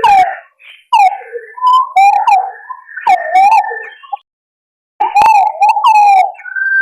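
Green pigeons calling: repeated warbling whistles that bend up and down, with a higher, steadier whistle running under some phrases. The calling breaks off for about a second past the middle, then resumes.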